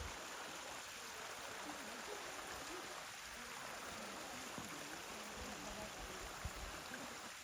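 Steady rushing background noise like running water, with faint distant voices and a few low thumps about two-thirds of the way through.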